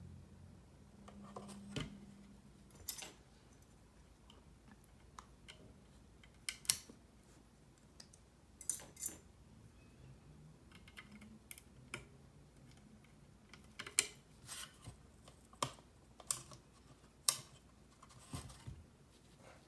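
Mechanical keyboard parts being handled and fitted: scattered sharp clicks and snaps at irregular intervals, roughly one every second or so.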